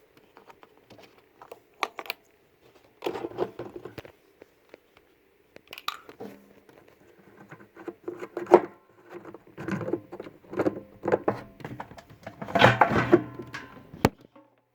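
Intermittent handling noises: scattered clicks, knocks and rustling with short silences between them, a sharp knock about halfway through and a longer clattering stretch near the end. No motor is running.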